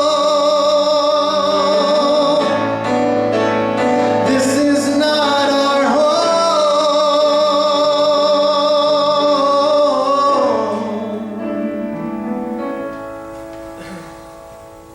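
A male singer holds long notes with vibrato over piano accompaniment, gliding up to a higher held note about six seconds in, then the music dies away and fades near the end.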